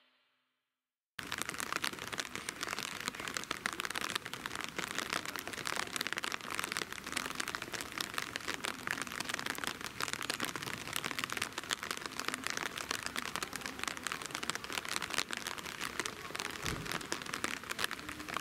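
Steady patter of rain, a dense crackling hiss of many fine drops, starting abruptly about a second in, with one low thump near the end.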